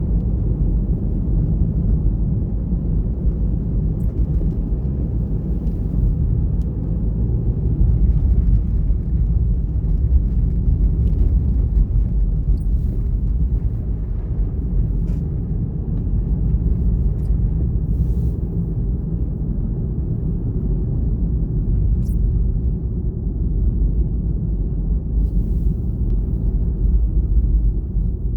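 Car driving on a winter road: a steady low rumble of tyres and engine, with a few faint ticks scattered through it.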